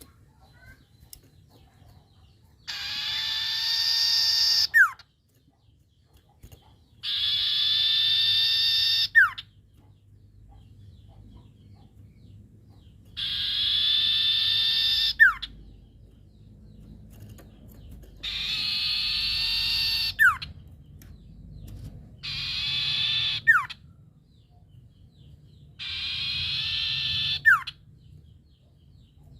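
A sirtu bird calling actively: six harsh, raspy calls of about two seconds each, a few seconds apart, each ending in a short sharp note.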